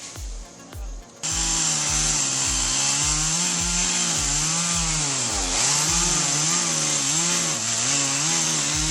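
Chainsaw cutting wood, cutting in suddenly about a second in. Its engine pitch keeps dipping and recovering as the chain bites and clears. A thudding low music beat runs underneath.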